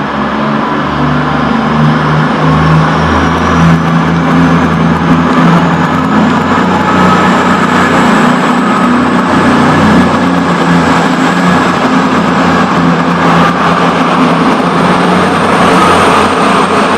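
Two coupled Class 221 Super Voyager diesel-electric trains pulling away from the platform and accelerating hard. The diesel engines run loudly under power, with a high whine that rises steadily in pitch as the train gathers speed.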